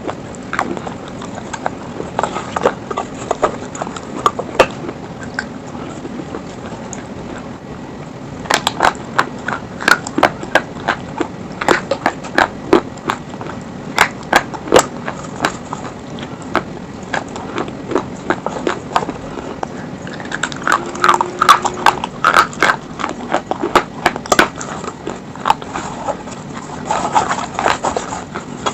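Slate stone being bitten and crunched close to the microphone: bursts of sharp cracking clicks as pieces break between the teeth, busiest from about a third of the way in and again near the end.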